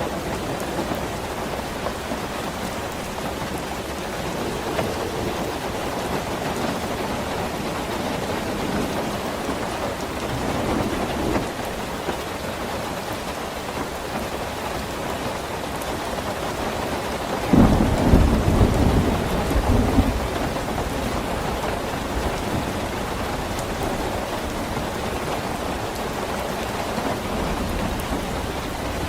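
Steady rain falling, with a clap of thunder breaking in sharply a little past the middle and rumbling away over two or three seconds.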